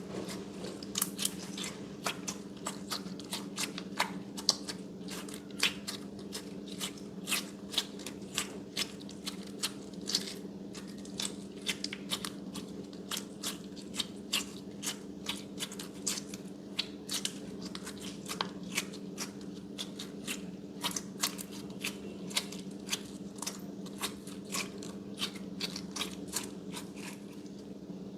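Slime being squeezed and worked by hand, giving off many crisp clicks and pops, several a second, at an uneven pace, over a steady low hum.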